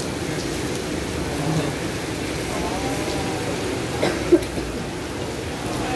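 Steady rain falling on an umbrella overhead, with a single sharp knock about four seconds in.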